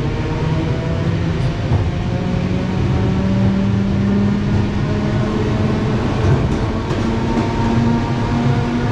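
Passenger train running, heard from inside the carriage: a steady rumble of wheels on the track, with a motor whine that slowly rises in pitch as the train gathers speed.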